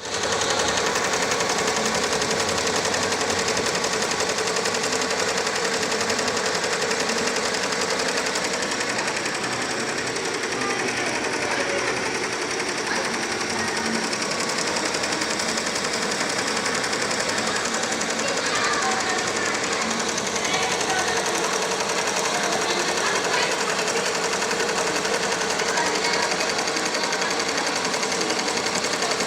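A HeFeng single-head computerized embroidery machine running steadily, its needle stitching with a fast, even clatter over a constant hum.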